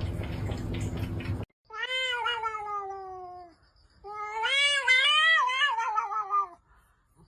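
Cat meowing: two long drawn-out meows, the first sliding down in pitch, the second wavering up and down. Before them, a steady rushing noise with a low hum cuts off suddenly in the first second and a half.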